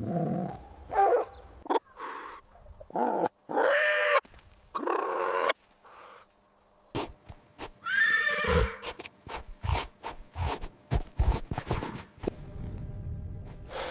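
Horse neighing and whinnying: several separate calls with wavering, falling pitch, followed by a run of short sharp sounds.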